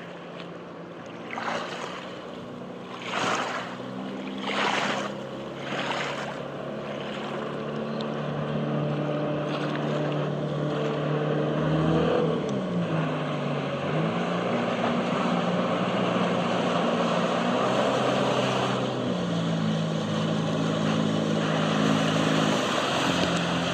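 Neptun 2A motor launch's engine running steadily under way. Its pitch dips briefly about halfway through, then comes back up. Water splashes against the hull four times in the first six seconds, and a hiss of rushing water grows behind the engine.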